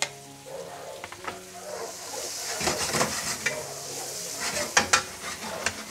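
Chopped onion, garlic, ginger and spring onion whites sizzling in hot oil in a stainless steel wok, stirred with a wooden spatula that scrapes and taps against the pan. The sizzle grows louder about two seconds in, with scattered clicks of the spatula on the wok.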